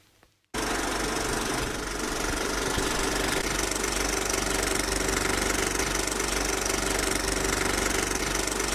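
A small machine running with a steady mechanical rattle, starting abruptly about half a second in.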